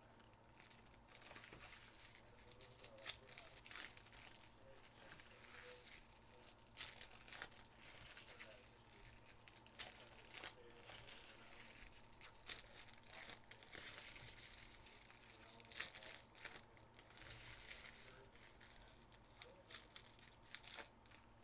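Faint crinkling and tearing of plastic trading-card pack wrappers being opened by hand, heard as many short, sharp rustles scattered throughout.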